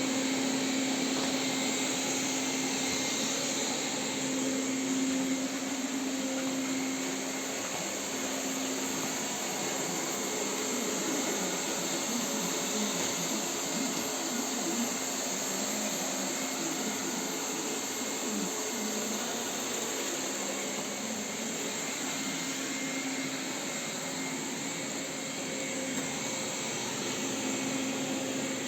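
Robot vacuum cleaner running: a steady whir with a constant low hum.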